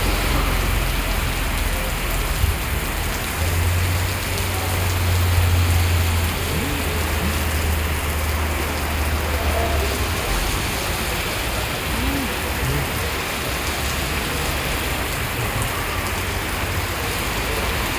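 Steady heavy rain falling and pattering on surfaces. A low rumble sits under it and stops about ten seconds in.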